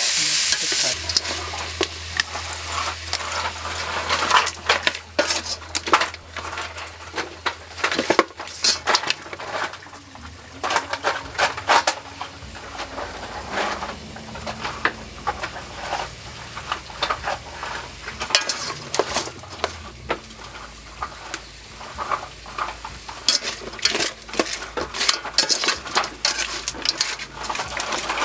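A cooking utensil stirring food in a pan or pot, with many irregular clinks and scrapes of metal on metal over a steady frying sizzle. The sizzle is loudest in the first second.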